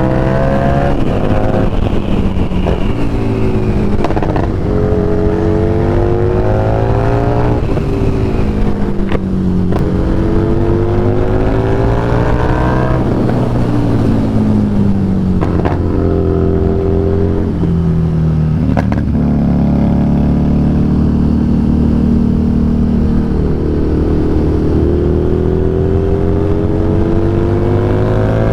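Harley-Davidson Street Rod 750's V-twin engine under way, its pitch climbing and dropping back several times as the bike accelerates through the gears and eases off. A few short sharp clicks fall in the middle.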